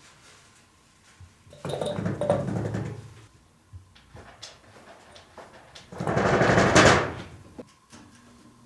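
A cat pawing at a door, which rattles and knocks in its frame. It comes in two bursts of rapid knocking, each about a second and a half long and a few seconds apart.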